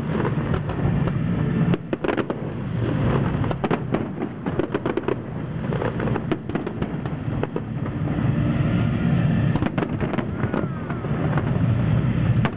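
Aerial fireworks display: many bangs and crackling bursts in quick succession over a continuous low rumble.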